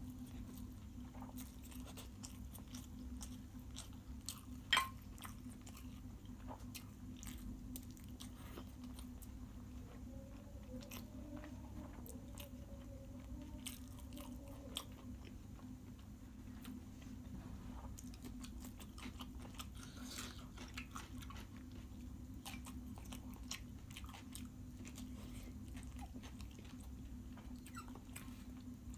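Close-miked chewing and mouth sounds of a person eating noodles and chicken biryani by hand: soft, scattered smacks and small clicks over a steady low hum, with one sharper click about five seconds in.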